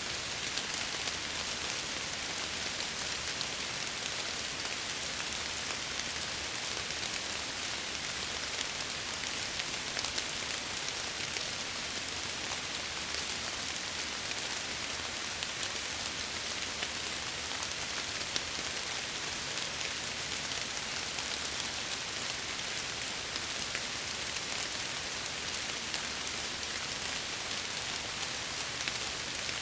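Steady rain on windows, an even hiss with faint scattered drop ticks.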